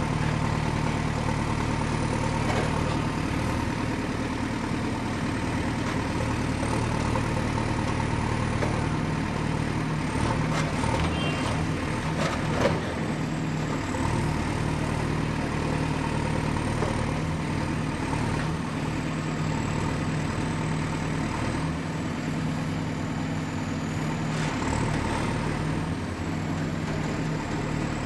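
Excavator engine running steadily under work, with a thin high whine that drifts up and down in pitch. A few sharp metallic knocks come about halfway through, the loudest of them a single clank.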